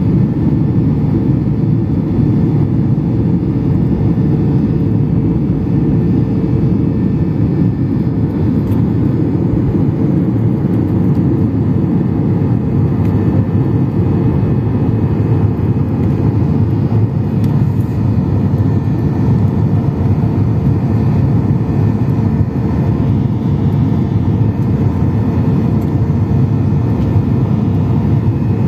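Steady cabin noise inside a Boeing 737-800 in flight: the CFM56-7B jet engines and the airflow make an even, low rush with a faint steady hum, unchanging throughout.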